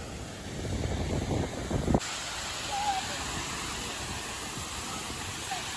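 Strong wind buffeting the microphone with a low rumble; about two seconds in it cuts abruptly to a steady, even hiss.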